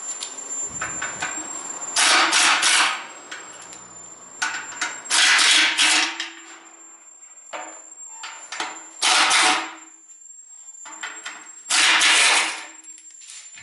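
Impact wrench run in four short bursts of about a second each, with lighter knocks and clatter of tools in between.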